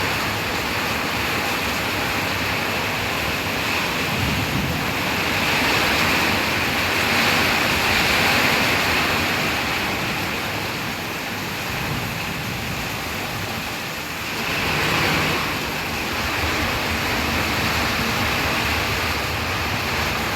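Heavy rain falling in a steady hiss that swells and eases a little from time to time.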